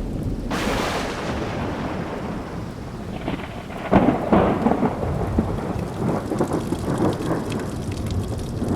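Thunderstorm: a sudden thunderclap about half a second in that rolls off into a rumble, and a second loud rumble with crackles about four seconds in, over steady heavy rain.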